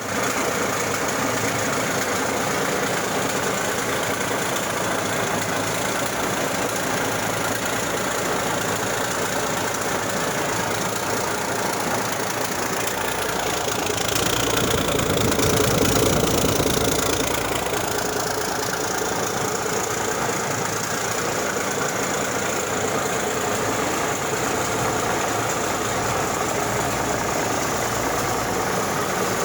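Cummins Big Cam NTA 855 six-cylinder 14-litre turbo diesel engine running on a test run, steady at idle with a brief rise in speed and loudness about halfway through before settling back.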